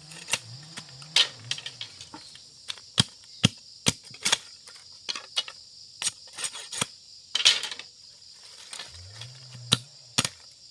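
Irregular sharp clicks and taps of small hard objects being handled, over a steady high chorus of crickets or cicadas.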